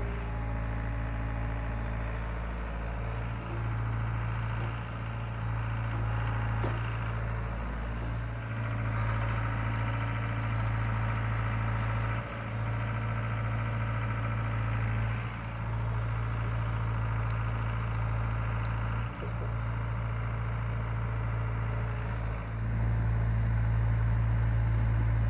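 Case excavator's diesel engine running steadily with a deep hum, its level dipping briefly several times and getting louder near the end.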